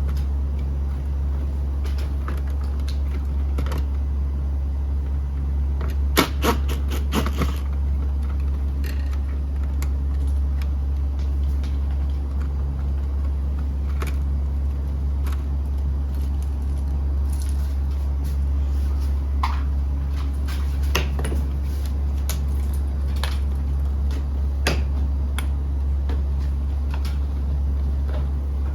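A steady low mechanical hum runs throughout, with scattered sharp clicks and knocks over it and a quick cluster of clicks about six to seven seconds in.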